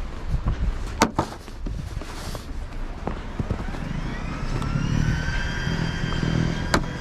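A motor running with a low rumble, winding up in pitch from about halfway and then holding steady, with a sharp click about a second in and another near the end.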